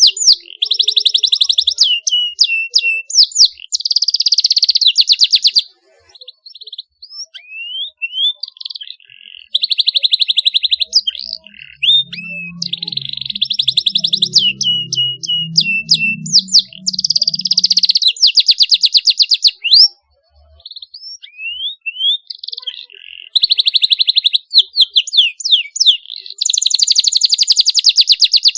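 Domestic canary singing: fast rolling trills of rapidly repeated high notes, about a second or two each, alternating with single rising and falling whistled notes and short pauses. This is the sharp rolling song that keepers play to young canaries to get them singing.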